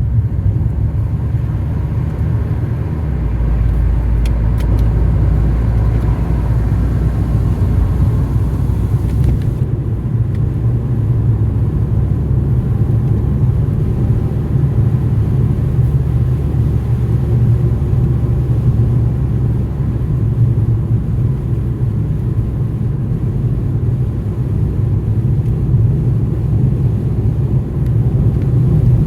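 Steady low rumble of a car driving, road and engine noise heard from inside the car.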